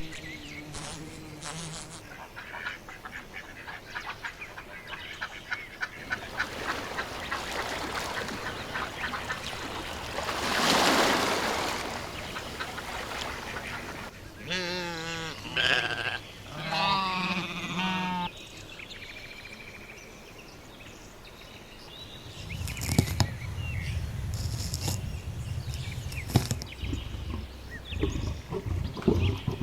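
A series of different animal and bird calls, one after another, with duck-like quacking among them. Two loud calls with a quickly wavering pitch come about halfway through, and a low rumbling noise with clicks fills the last few seconds.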